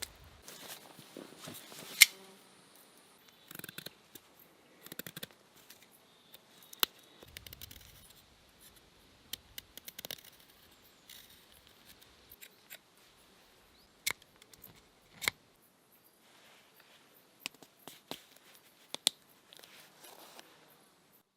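Scattered sharp clicks, snips and light scrapes of something being handled and cut at close range, the loudest about two seconds in.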